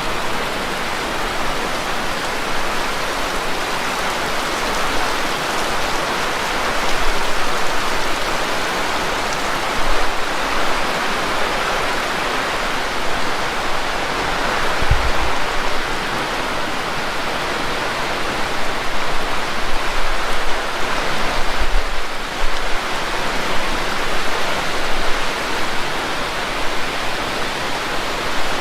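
Heavy rain falling steadily, a dense hiss of drops on surfaces, with a few brief low thumps along the way.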